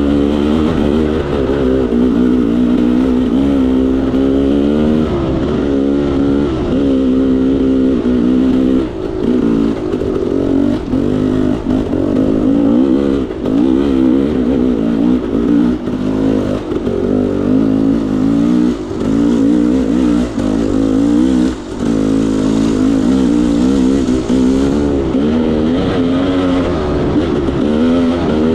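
KTM 300 XC-W's single-cylinder two-stroke engine ridden hard on a trail, its pitch rising and falling every second or two as the throttle is opened and closed.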